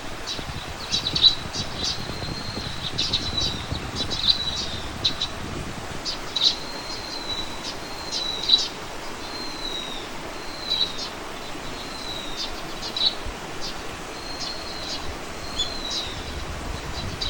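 A small bird calling over and over: short high chirps and thin whistled notes that dip slightly in pitch, roughly one a second, over a steady outdoor background hiss.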